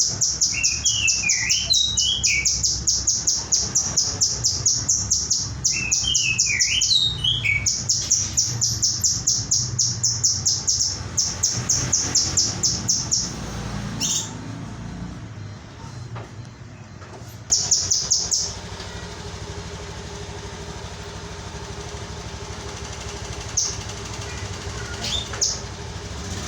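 Male kinoy bird singing: a fast, high trill of rapidly repeated notes lasting about thirteen seconds, twice joined by lower swooping whistled phrases. After a pause it gives one short burst, and near the end two single chirps over a faint steady hum.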